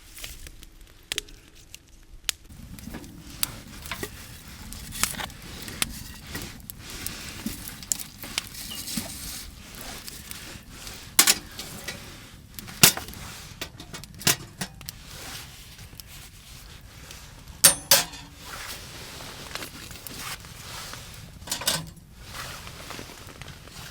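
Metal camp gear being handled: scattered sharp clinks and knocks, the loudest a little past the middle and a quick double knock later on, over a steady low rustle that starts a couple of seconds in.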